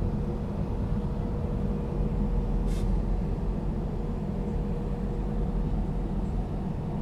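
Diesel locomotive idling: a steady low rumble with a steady hum, and a short hiss of air about three seconds in.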